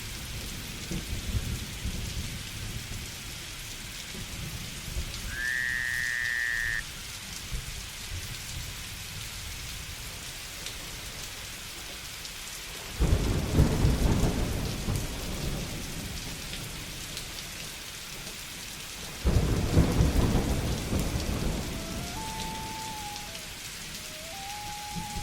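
Steady rain hissing, with low thunder rumbling and two sudden thunderclaps about 13 and 19 seconds in, each rolling away over several seconds. A brief whistle sounds about six seconds in, and a few short, stepping whistled calls come near the end.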